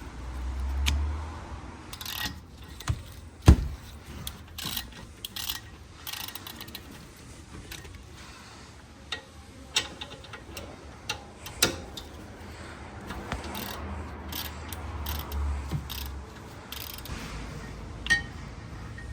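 Hand tools clicking and clinking on a rear brake caliper as it is unbolted and taken off, with irregular metal taps throughout and one sharp knock about three and a half seconds in.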